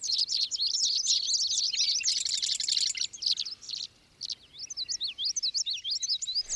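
Birdsong: quick high chirps and warbles from small birds, with a rapid trill about two seconds in and a short pause just after it before the chirping resumes.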